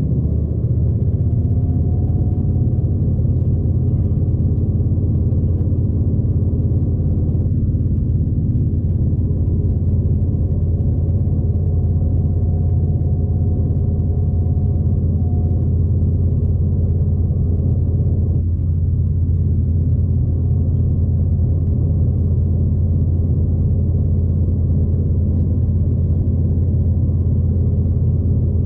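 Steady low rumble of a V/Line diesel train under way, its engine drone and wheels on the track heard from inside the carriage.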